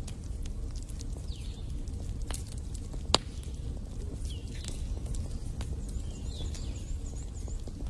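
Wood fire in a fireplace crackling over a steady low rumble, with scattered sharp pops and one louder pop about three seconds in. Faint, short, high whistling chirps come through now and then.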